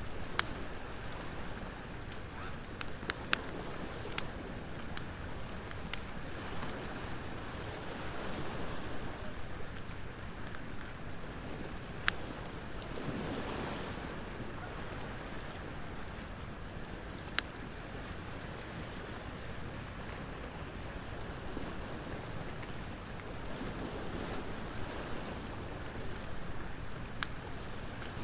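Wood bonfire crackling, with a scattering of sharp single pops, over steady ocean surf whose waves swell and fade, the biggest about halfway through.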